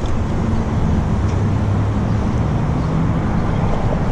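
Road traffic noise with the steady low hum of a motor vehicle engine close by.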